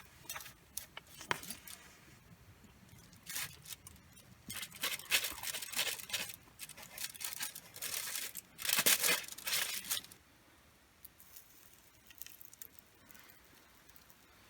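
Crinkly packaging being handled and torn, heard as bursts of rustling and crinkling from about four to ten seconds in, with a few sharp clicks before them.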